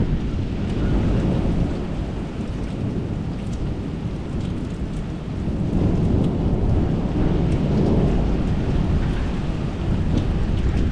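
Thunderstorm: a long low rumble of thunder that swells in the second half, over steady rain with scattered drop ticks.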